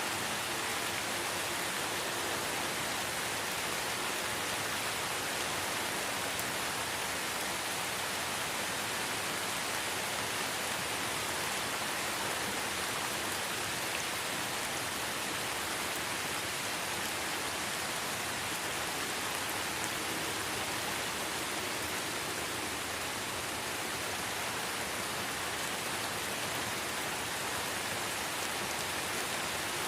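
Steady light rain falling in a forest, an even hiss of many small drops pattering on leaves and ground.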